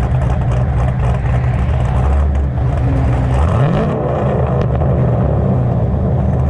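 Cammed LS3 V8 of a 2011 Camaro running through a straight-piped exhaust with the mufflers deleted, with a steady low drone that rises in pitch as the engine revs up about three and a half seconds in.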